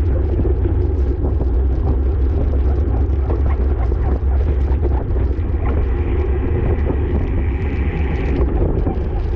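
Steady low rumble of wind on the microphone while riding in a bicycle race, with a faint high whine from about six to eight seconds in.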